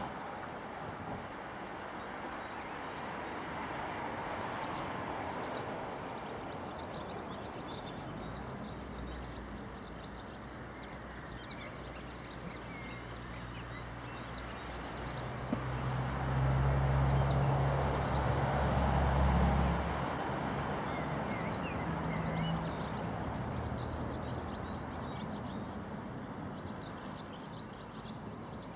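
Diesel train running past, its low engine hum building, loudest about 16 to 20 seconds in, then fading. Birds sing throughout over a steady outdoor background noise.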